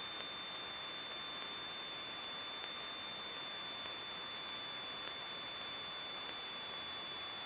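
Electrical hiss from the Cessna 152's cockpit audio feed, with a steady high-pitched whine and a faint tick about every second and a quarter. No engine is heard.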